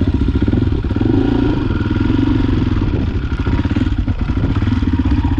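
Motorcycle engine running steadily, its firing pulses close and even, easing off slightly a few seconds in.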